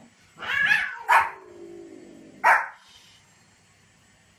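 A dog barking three times: a longer bark about half a second in, a short sharp one just after a second, and another about two and a half seconds in.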